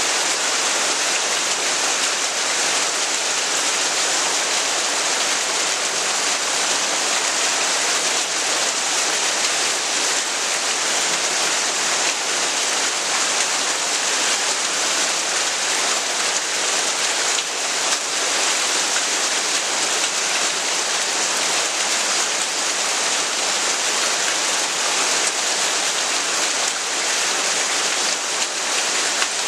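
Heavy rain falling steadily, an even, unbroken hiss with no changes in strength.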